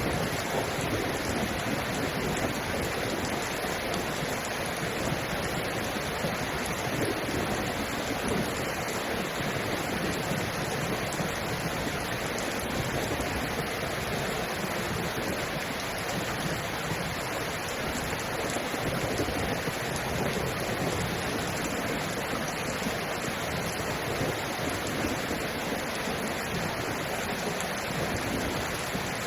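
Heavy rain falling steadily: an even, unbroken rush of water noise.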